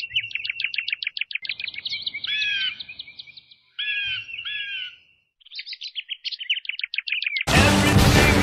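Birds chirping: rapid runs of high chirps and a few down-sliding whistled calls, with a short break about five seconds in. Music starts abruptly about seven and a half seconds in and is louder than the birds.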